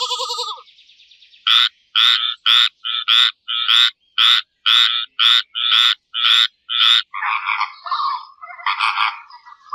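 A tree frog calling in a quick run of about fifteen short, evenly spaced croaks, roughly three a second. At the very start the tail of a sheep's bleat fades out, and from about seven seconds in flamingos give rough, honking calls.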